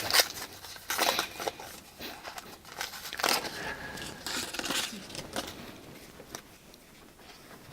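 Foil wrapper of a 1989 Upper Deck baseball card pack crinkling and tearing as it is ripped open, in irregular bursts that thin out in the second half.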